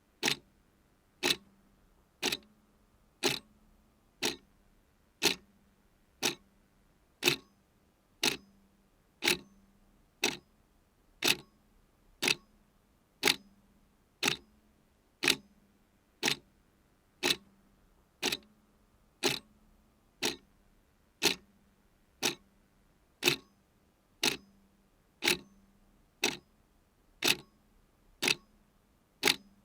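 Clock ticking steadily, one sharp tick a second, with a faint low hum beneath the ticks.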